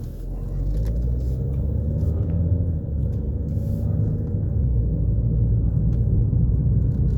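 Low vehicle rumble heard from inside a moving car, growing louder about half a second in and then holding steady.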